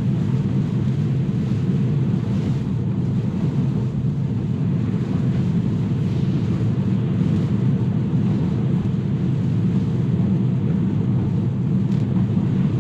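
Steady tyre and road noise inside a Tesla's cabin while driving on a wet road in the rain.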